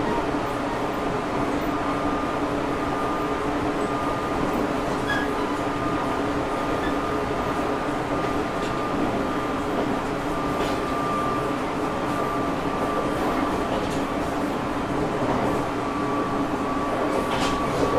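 Running sound inside a JR Shikoku 8000 series limited-express electric train travelling at steady speed. It is a continuous rumble of wheels on rail with a steady high whine that holds its pitch throughout, and a few faint clicks near the end.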